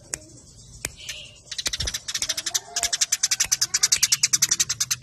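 Eurasian tree sparrows chirping, sharp and high: a few scattered chirps, then from about a second and a half in a fast, tight run of about ten chirps a second, the rapid calling of sparrows fighting.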